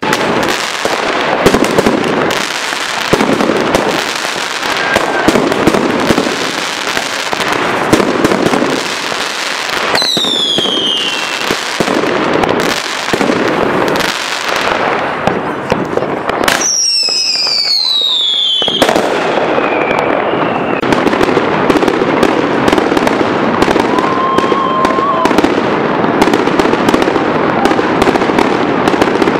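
New Year's fireworks going off without a break: dense crackling and banging of aerial bursts and firecrackers. High whistles fall in pitch about ten seconds in and again around seventeen seconds.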